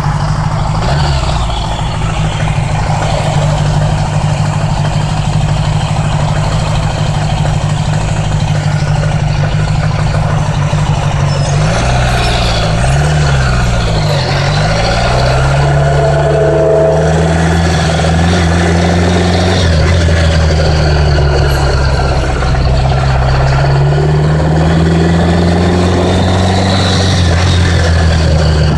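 1980s Honda Gold Wing motorcycle engine running under way, its pitch wobbling quickly up and down about halfway through, then climbing, dropping, sagging and climbing again as the bike speeds up and slows. A steady rush of wind and road noise runs under it.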